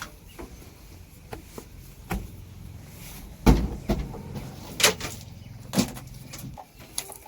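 An engine running with a low, steady hum, under a string of sharp knocks and clanks; the loudest knock comes about three and a half seconds in, and the hum drops away near the end.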